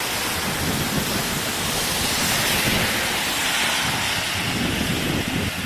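Hailstorm: hail and heavy rain pelting down with wind, a loud, dense, steady downpour.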